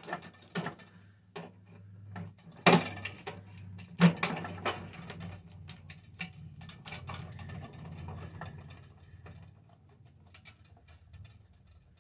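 Clicks, knocks and clatter of metal parts and tools being handled while a microwave oven is taken apart, with two loud sharp knocks a few seconds in.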